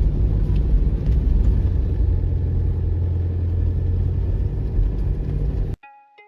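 A moving car's engine and road noise, a steady low rumble that cuts off abruptly near the end, where a few plucked-string music notes begin.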